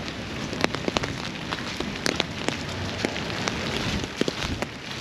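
Steady rain falling, an even hiss with many sharp, irregular drip ticks of drops striking close by.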